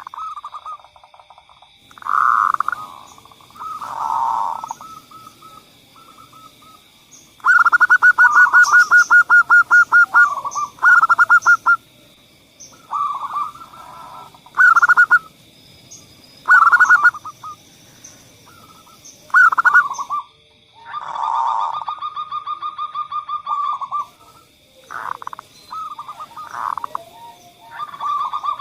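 Zebra dove (perkutut) song: repeated phrases of quick pulsed cooing notes, some run together into fast even trills, with short pauses between phrases. A steady faint high-pitched tone runs underneath throughout.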